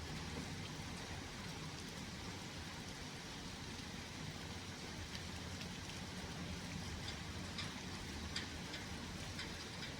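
Steady rain during a thunderstorm, with scattered drop ticks over an even hiss and a steady low hum beneath.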